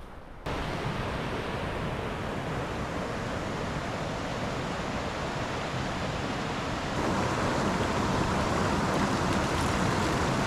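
Rushing creek water, a steady hiss that cuts in suddenly about half a second in and grows louder about seven seconds in.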